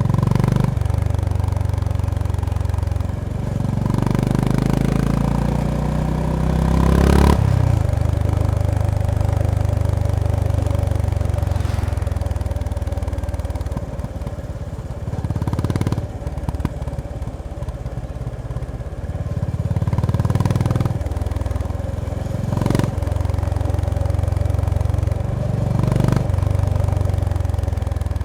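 Honda GB350S single-cylinder engine and exhaust under way, the revs climbing steeply about four seconds in and cut off by a gear change at about seven seconds. The note drops and picks up again with further short breaks later, at the gear changes.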